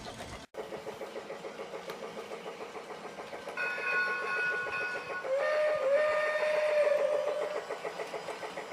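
Lionel Polar Express Ready to Play battery-operated toy locomotive running with a rapid rhythmic chugging clatter. Its whistle sound plays twice: a steady chord of high tones about three and a half seconds in, then a lower held whistle tone.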